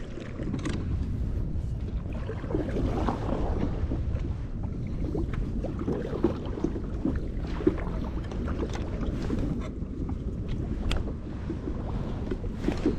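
Steady low rumble of wind on the microphone and water around a kayak, with scattered light clicks and knocks as a small tripod camera mount is set up on the kayak.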